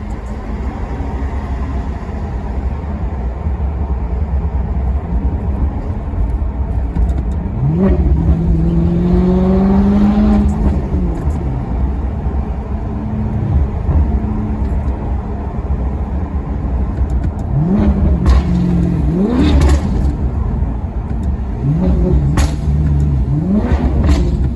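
Maserati Quattroporte Sport GT's V8 engine running under load: one long rev rise about a third of the way in as it accelerates, then several quick sharp revs in the second half as the throttle is blipped on downshifts, with short cracks among them.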